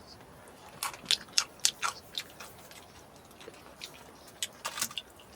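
Close-up chewing of food: a run of crisp, wet crackly clicks about a second in, and another burst near the end.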